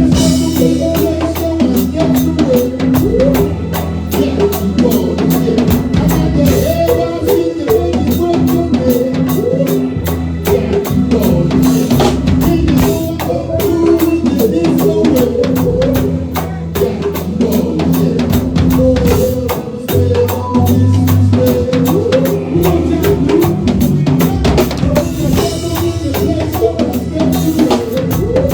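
Live band playing, with a drum kit keeping a steady, busy beat of kick, snare and rimshots under bass and melodic instruments.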